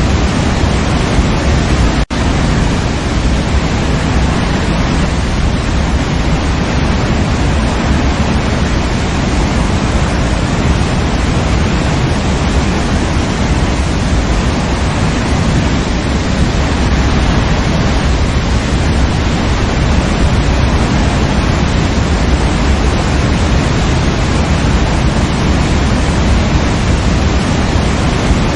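Waterfall: a steady, loud rush of falling water, with a split-second dropout about two seconds in.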